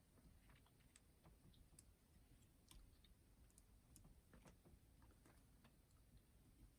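Near silence with faint, irregular small clicks, typical of small parts being handled during repair work.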